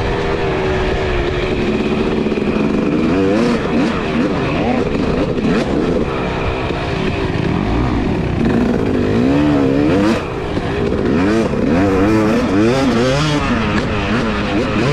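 Two-stroke dirt bike engine being ridden, its pitch rising and falling repeatedly as the throttle is opened and closed through the gears.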